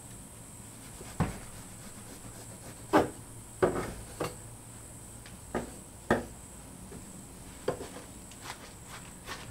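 Wall insulation going in: about eight scattered knocks and rubbing, rustling noises a second or so apart as batts are handled and pressed in between the studs.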